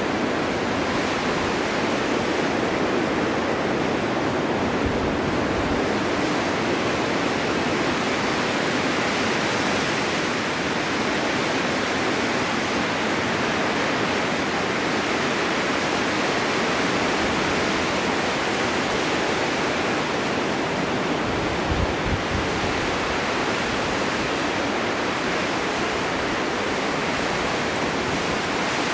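Snowstorm wind blowing steadily, an even rushing hiss with no let-up, with a brief low buffet about twenty-two seconds in.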